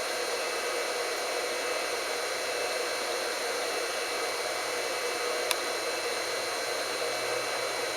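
Steady background noise: an even hiss with a few faint steady high tones in it, unbroken throughout. A single faint click about five and a half seconds in.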